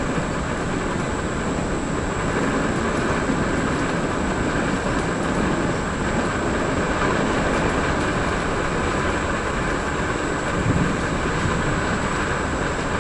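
Running noise heard on board a Vivalto double-deck regional passenger train under way: a steady rumble of wheels on the rails, with one brief knock a little over ten seconds in.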